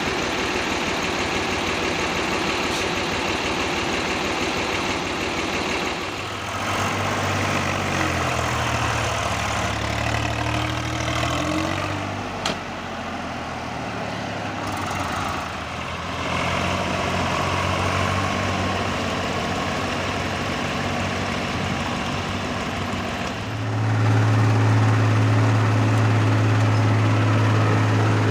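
Tractor diesel engines running, the engine note changing abruptly several times, with one sharp click about halfway through. In the last few seconds the engine holds a louder, steady low drone.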